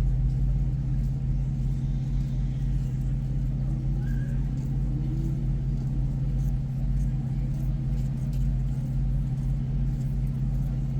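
A car driving along, giving a steady low engine and road drone.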